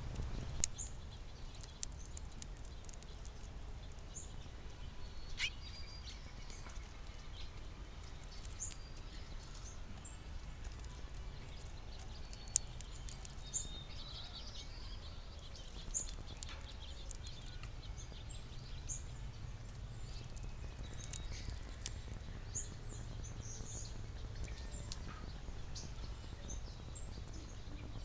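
Small songbirds chirping in short, scattered calls, with a few sharp ticks, over a steady low background rumble.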